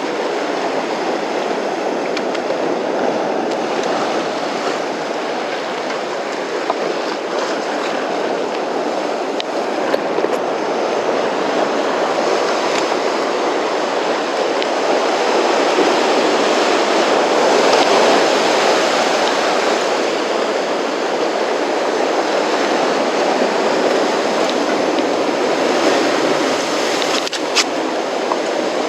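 Rough sea surf: a steady rushing of waves that swells a little about halfway through.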